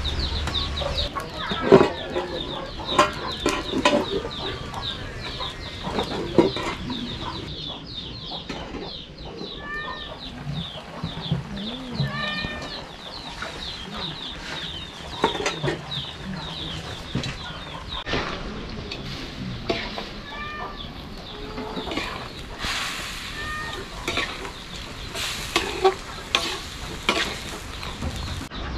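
Chickens clucking, with scattered knocks and clatter through it.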